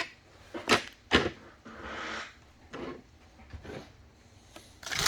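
Trading cards and packs being handled: a few soft taps and a short rustle, then a card pack wrapper crinkling near the end.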